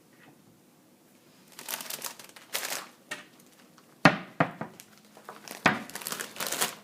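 Crinkly plastic bag of tortilla chips being handled, in irregular rustling bursts with a few sharp crackles.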